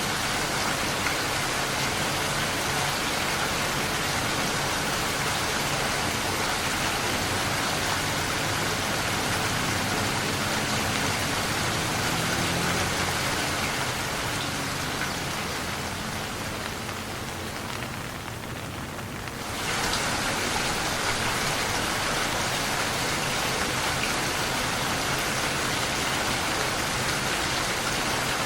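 Steady rain falling and pattering on surfaces. About two-thirds of the way through it fades and thins for a few seconds, then comes back suddenly at full strength.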